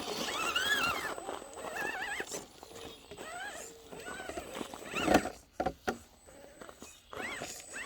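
Several high, wavering animal calls, with a sharp knock about five seconds in.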